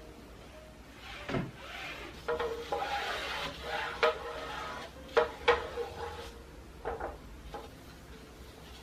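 Household cleaning handling sounds: a stretch of rubbing and scrubbing, broken by several sharp knocks of objects being set down or bumped, the loudest two close together about five seconds in.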